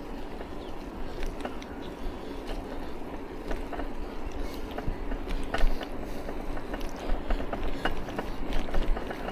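A bicycle rolling on a wet road: a steady rushing noise with scattered small clicks and rattles.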